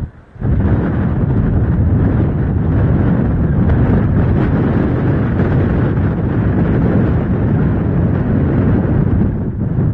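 Strong wind blowing across the microphone: a loud, steady rumble that briefly drops away right at the start, then holds.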